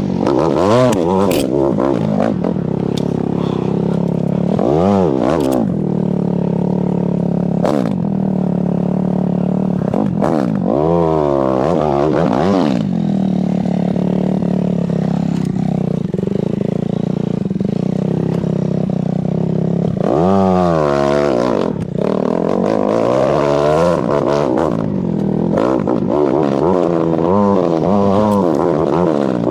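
Enduro motorcycle engine running under load off-road, revved hard again and again, its pitch rising and falling between steadier stretches.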